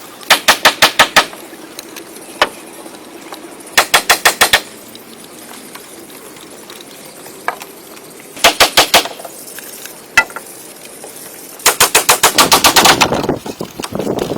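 Four bursts of rapid, sharp knocks, about eight to ten a second, each burst lasting about a second; the last is the longest. A couple of single knocks fall between the bursts.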